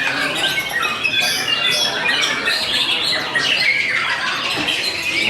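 Many songbirds singing and chirping at once: a dense, overlapping chorus of short whistles and calls.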